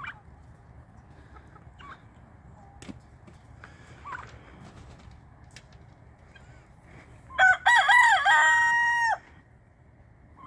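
A rooster crowing once, about seven seconds in: a few quick notes and then a long held final note, lasting under two seconds. Fainter clucks and calls from other poultry come before it.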